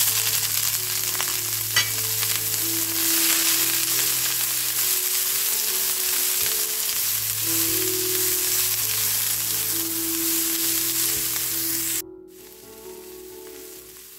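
Shredded cabbage sizzling loudly in hot oil in a nonstick frying pan as it is stirred with a silicone spatula. The sizzle starts suddenly as the cabbage goes in and cuts off abruptly about twelve seconds in, leaving only soft background music.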